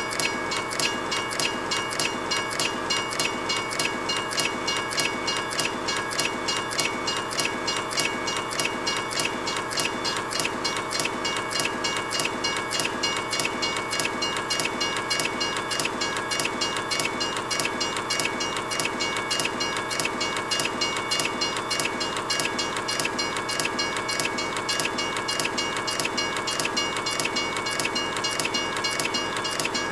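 A train running past: a fast, even clatter of wheels with a few steady high tones over it, holding at one level throughout.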